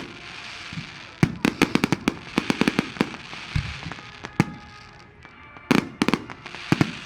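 Fireworks going off: volleys of sharp cracks and bangs in quick clusters, with a hissing crackle between them. The densest run of bangs comes about a second in, and another cluster comes near six seconds.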